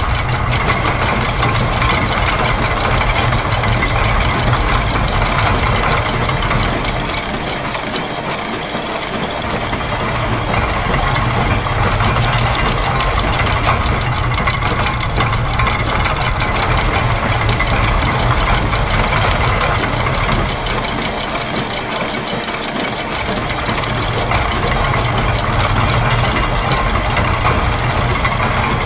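Layered loops of factory machine sounds, built from gears, a press, clockwork springs, ratchets and a sewing machine, forming a dense, continuous mechanical clatter of rapid ticks over a low hum. The low hum drops away briefly about eight seconds in and again about twenty-two seconds in.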